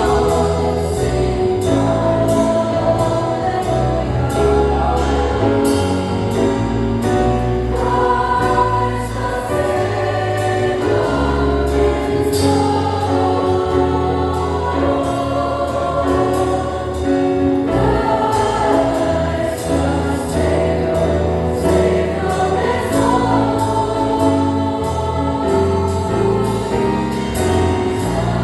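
Church choir singing a jazz-style Christmas cantata number with band accompaniment: held choral notes over changing bass notes and a steady drum and cymbal beat.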